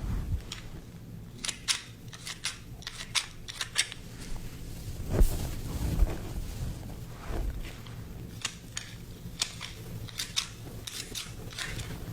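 Wooden scissors snipping close to the microphone: a string of crisp, irregularly spaced snips, with a couple of soft handling bumps about five and six seconds in.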